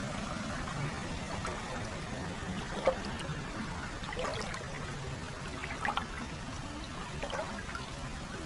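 Hot-spring source water pouring and trickling into an open-air foot bath, a steady flow with small splashes and plops now and then.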